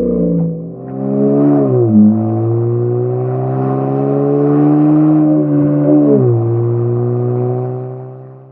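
Hyundai YF Sonata's naturally aspirated four-cylinder engine running through a custom exhaust with a chamber muffler, revved and held at a steady speed. Its pitch drops and climbs again in the first two seconds, holds for a few seconds, falls back about six seconds in, then fades out near the end.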